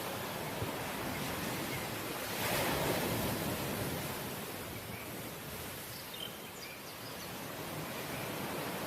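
Sea waves washing onto the shore, a steady rush with one wave surging louder about two and a half seconds in and then falling back.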